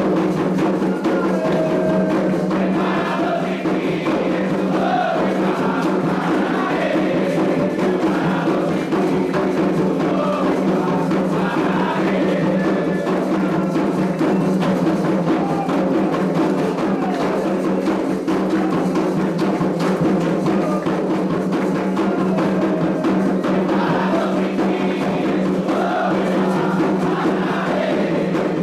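Candomblé ritual music: atabaque hand drums playing a dense, steady rhythm under group singing of chants.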